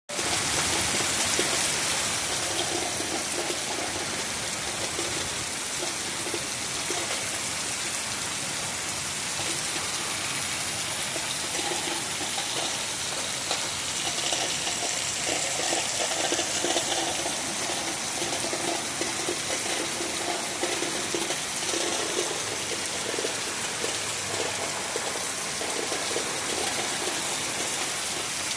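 Torrential rain falling steadily, a dense, even wash of noise with no let-up.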